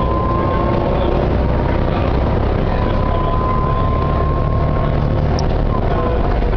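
Volvo B7TL bus running, with a deep rumble under a thin high whine that rises a little and then holds steady. The whine is typical of the bus's gearbox.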